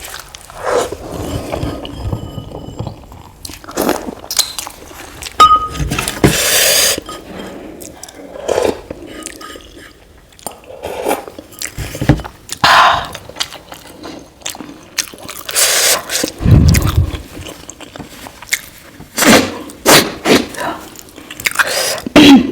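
Close-miked eating: a person chewing soft idli with sambar and chutney, with irregular wet mouth clicks and smacks.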